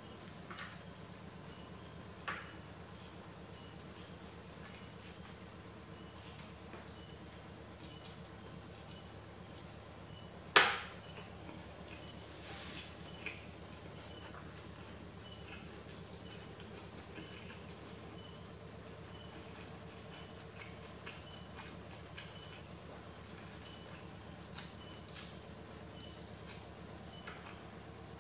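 Steady high insect-like chirring of crickets throughout, with a faint regular pulse under it. Over this come sporadic soft clicks and crunches of chewing, one louder crunch about ten seconds in.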